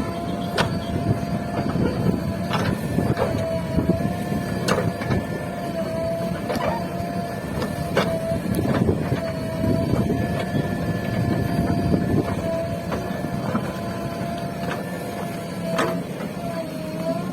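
JCB 3DX backhoe loader's diesel engine working under load with a steady hydraulic whine that dips slightly now and then, broken by about a dozen sharp knocks as the bucket digs into the hillside.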